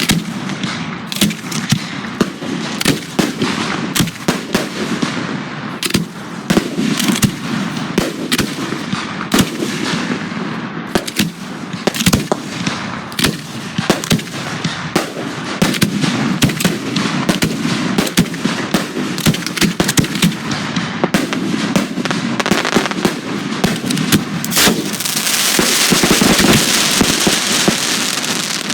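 Professional display fireworks (aerial shells and cakes) going off in rapid succession, with many sharp bangs and reports throughout. Near the end a dense spell of hissing crackle fills in between the bangs.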